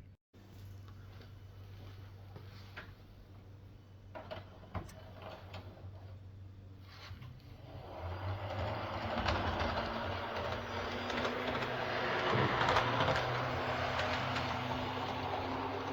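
HO scale model locomotive running on the layout track, its small electric motor whirring and its wheels clicking over the rails. It is faint at first and grows louder from about halfway, loudest a few seconds before the end as it passes close.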